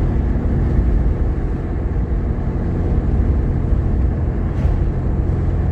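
Steady drone of a Jeep Grand Cherokee's 3.7-litre V6 and road noise, heard inside the cabin while driving at a constant pace.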